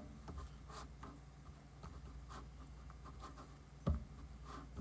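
Faint scratching and rustling with small clicks from chicken pieces being handled and coated in flour, and a single louder knock near the end, over a steady low hum.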